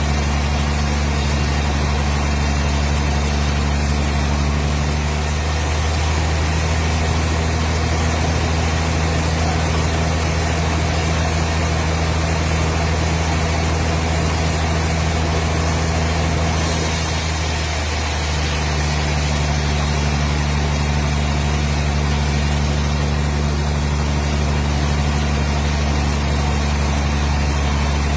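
A motor engine running steadily with a low, even hum, its pitch shifting slightly about five seconds in and again around eighteen seconds.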